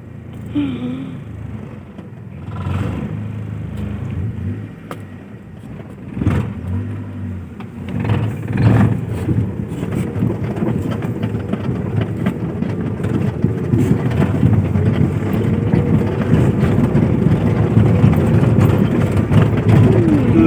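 Car engine running as the car drives, growing steadily louder over the second half as it picks up speed.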